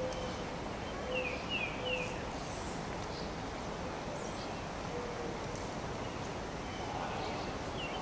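Steady outdoor background noise with a bird calling: three quick falling chirps about a second in, then a few fainter chirps later on.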